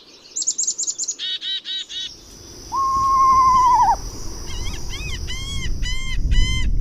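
Recorded bird calls from more than one kind of bird: quick runs of high chirps in the first two seconds, then a single long whistled note, then repeated arched calls about two a second. Under the later calls run a steady high buzz and a low rumble.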